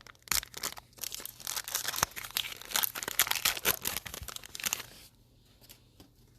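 A sealed trading-card pack's plastic foil wrapper being crinkled and torn open by hand, a stubborn wrapper that resists opening. The crackling stops about five seconds in.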